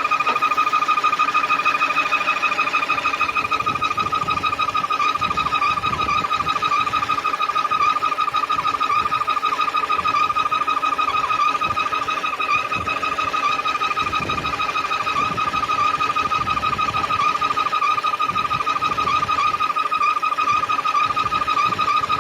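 Steady high-pitched whistle from a 2007 Chevrolet Aveo with the 1.2-litre petrol engine running at idle, holding one pitch with a slight waver over the low engine sound. It is the fault whistle the owner is trying to trace, which fades when the throttle is opened and grows when the clutch pedal is pressed.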